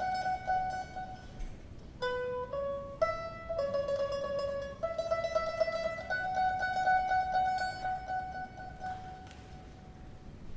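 Mandolin orchestra playing a slow, gently rocking melody: a few quicker note changes, then long held notes that fade away near the end.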